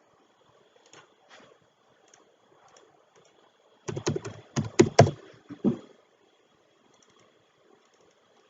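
Computer keyboard typing: a quick run of about eight key strokes in the middle, with a few faint single clicks before and after.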